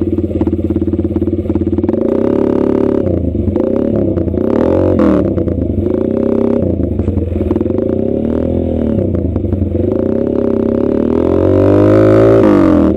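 Motorcycle engine running loud, its note rising and falling several times with the throttle, loudest near the end.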